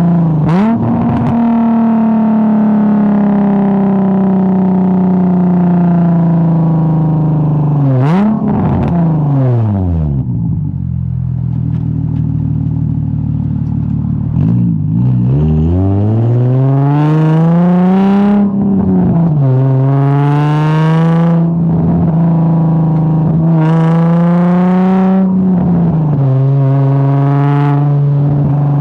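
Straight-piped Infiniti G35's V6 exhaust running loud. Its revs climb and drop back several times, dip low about a third of the way in, then climb again in a series of pulls.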